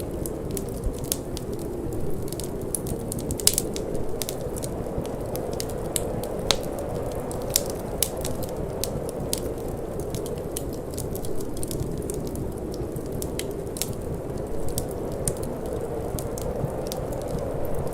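Wood fire burning in a fireplace, crackling with frequent irregular sharp pops over a steady low rumble of flame and wind.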